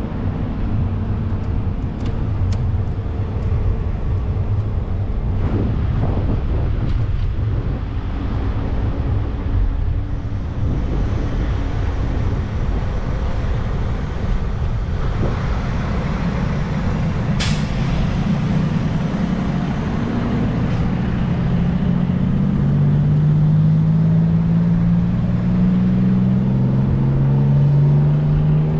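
City street traffic with the low rumble of heavy vehicle engines. A short sharp hiss comes about two-thirds of the way through, then an engine pulls away with its pitch rising over the last several seconds.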